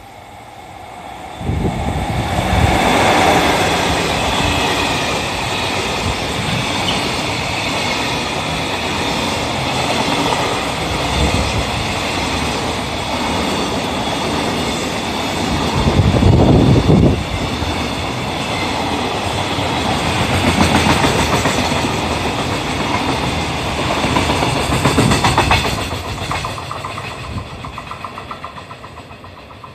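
EF66 electric locomotive hauling a freight train of container flatcars through a station without stopping: the locomotive's rumble, then a steady clickety-clack of wagon wheels over the rail joints. It swells about two seconds in, is loudest around the middle, and fades over the last few seconds as the train draws away.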